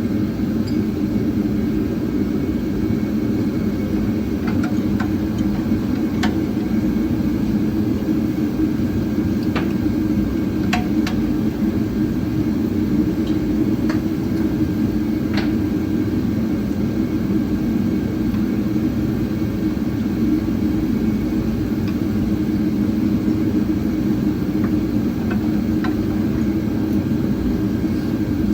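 Steady mechanical whir or hum that does not change, with a few faint, short clicks and taps over it.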